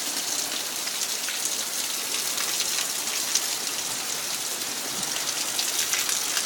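Heavy hurricane rain falling steadily, a dense hiss of many small drop impacts.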